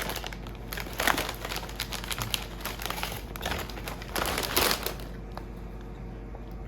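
A crisp packet rustling and crinkling in several bursts as a chip is taken out, stopping about five seconds in.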